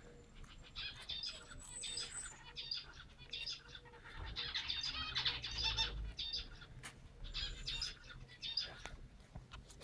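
Small birds chirping, in repeated quick clusters of short high notes.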